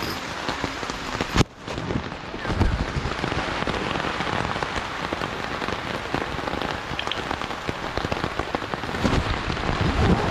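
Steady rain falling, heard from inside a tent. There is a sharp click and a brief drop-out about a second and a half in.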